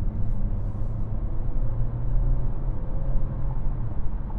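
Cabin sound of a Renault Captur E-Tech Full Hybrid accelerating harder: its 1.6-litre four-cylinder petrol engine runs faintly under a steady low road hum, very refined, with a faint steady tone that fades out near the end.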